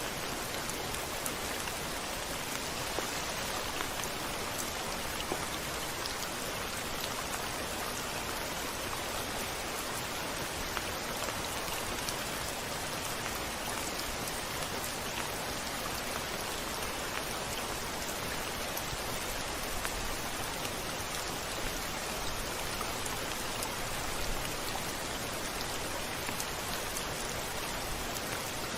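Steady heavy rain with many fine drop ticks, an even hiss that holds throughout.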